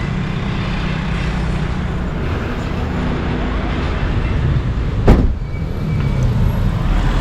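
Road vehicle running, with a steady engine hum and road noise. A single sharp knock comes about five seconds in.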